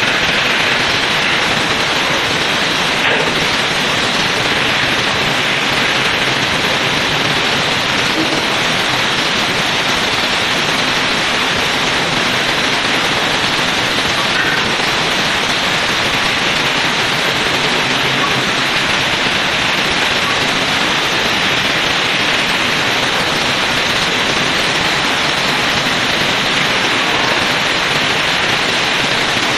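Electric arc welding with a steady, unbroken crackle and hiss.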